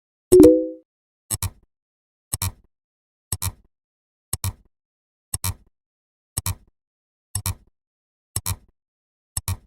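Sound-effect track for a number count: short double clicks about once a second, nine in all. About a third of a second in there is a louder, short tone of a few pitches together that fades out over about half a second.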